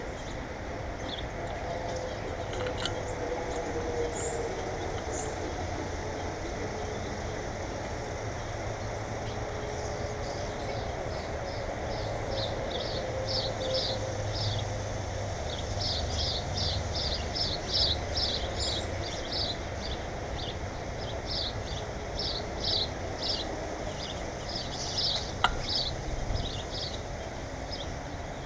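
Small birds chirping, short high notes repeated in quick runs of a few per second that thicken after the first several seconds. Under them runs a steady low rumble, and a single sharp click comes near the end.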